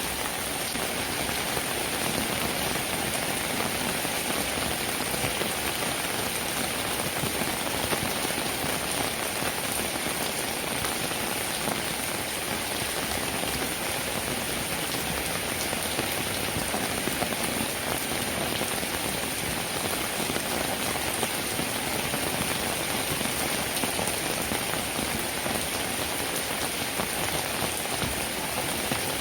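Steady rain falling: a dense, even patter of drops that keeps up without let-up.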